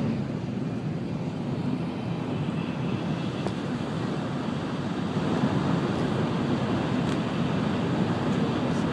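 Sanyo Shinkansen train running at speed, heard from inside the passenger car: a steady low rumble of wheels, running gear and air rush.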